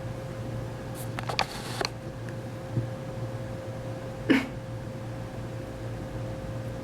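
Pet cat moving about on a desk among planner papers: a few light rustles and taps about a second in, a soft thud near three seconds and one short sharp sound just past four seconds, over a steady room hum.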